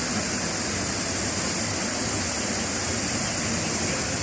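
Ouzoud waterfall: a steady, even rush of falling water, with its strongest hiss high up.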